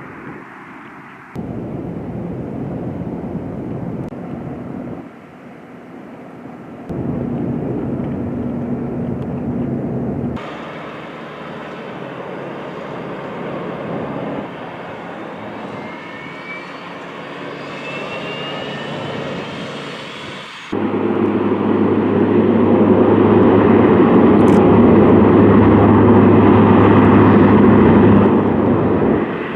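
MQ-9 Reaper's turboprop engine and propeller running, heard in several cut-together shots whose level jumps abruptly. The loudest stretch, from about 21 to 28 seconds, is a strong steady propeller drone.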